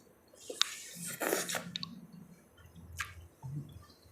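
Close-up eating sounds: wet chewing and squishing of a mouthful of spicy seafood salad, with a louder wet burst about a second in and a couple of sharp clicks.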